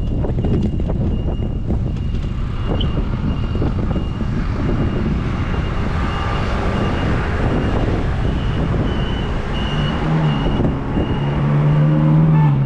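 Wind rushing over the microphone and road traffic, heard from a moving bicycle, with a faint high beep repeating throughout. Near the end a motor vehicle's engine draws close with a steady low hum.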